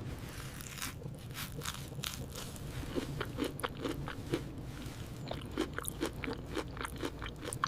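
Irregular crunchy crackling clicks, many per second, over a steady low rumble, starting abruptly.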